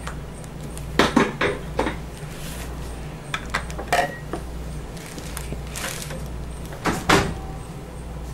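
Knocks and clatter of containers and utensils being handled on a work surface: a quick run of knocks about a second in, more around four seconds and near seven seconds, over a steady low hum.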